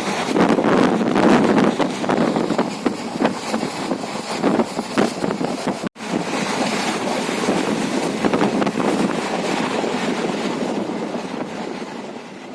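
Steady rushing noise of wind buffeting the microphone, broken by a brief dropout about six seconds in and fading away near the end.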